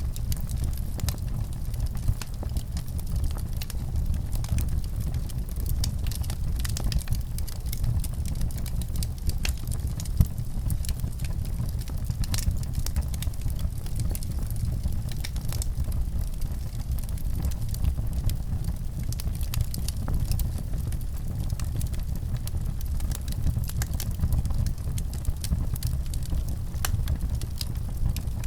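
Fire in a fireplace crackling: many small, irregular pops and snaps over a steady low rumble of the flames.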